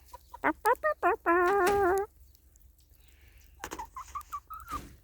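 Hen calling: a quick run of short clucks builds into one long, wavering squawk. A softer run of short clucks follows about a second before the end.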